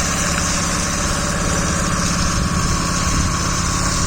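An engine or motor running steadily at idle, a low pulsing rumble with a hiss above it.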